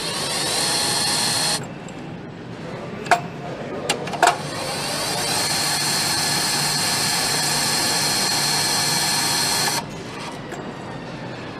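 A power tool whining in two runs, a short one at the start and a longer one of about five seconds. Each run rises in pitch as it spins up, holds steady and cuts off sharply, with a few sharp clicks in between.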